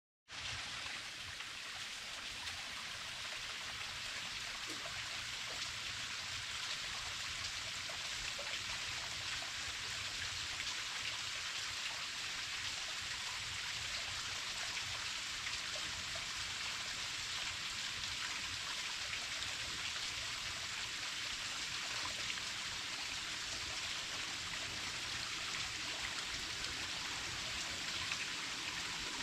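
Small waterfall falling and splashing into its pool, a steady even rush of water.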